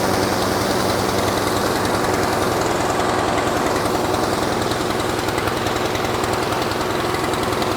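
Engine-driven pressure washer running steadily at working speed, its engine and pump making a rapid, even pulsing.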